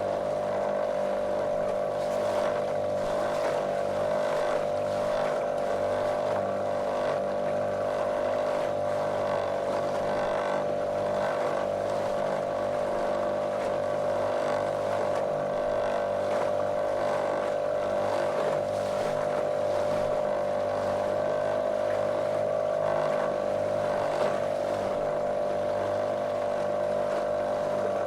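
Small motorboat's outboard motor running at a steady cruising speed, a constant monotonous drone with the hiss of water along the hull.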